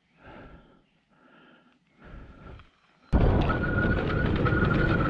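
A few faint breaths, then about three seconds in the Admitjet Armor electric dirt bike sets off. A sudden loud rush of wind noise on the camera microphone comes in with a steady high-pitched electric motor whine and scattered small rattles.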